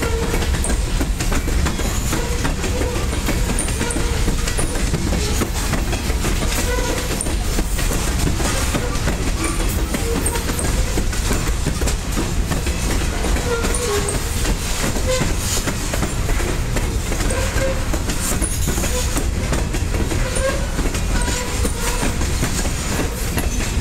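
Freight train of covered hopper cars rolling past: a steady rumble of steel wheels on rail with clickety-clack knocks over the rail joints. Brief squeaks from the wheels come here and there.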